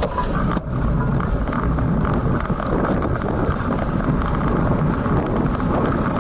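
Strong wind buffeting the built-in microphone of a bike-mounted action camera: a steady, loud, low rush of wind noise, with a brief dip about half a second in.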